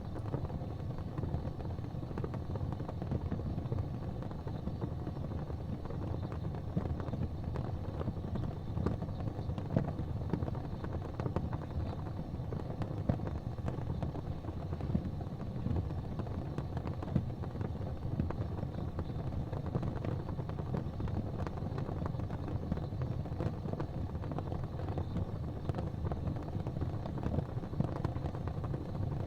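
Gas fireplace flames burning with a steady low rumble, with small faint pops now and then.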